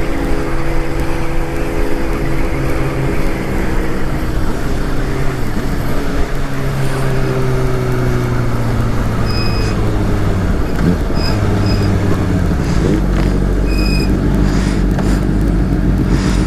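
Motorcycle engine running at a steady cruise, with heavy wind rush on the mic. The engine note eases off and fades about twelve seconds in, leaving mostly wind noise. A few short high beeps come near the end.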